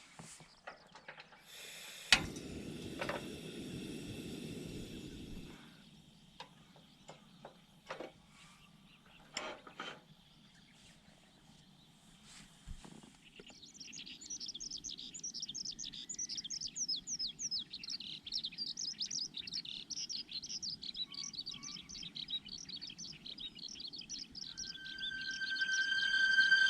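A songbird singing a long, rapid run of high chirps through the second half, with a sharp click and a few seconds of low rustling noise near the start and a few scattered light clicks.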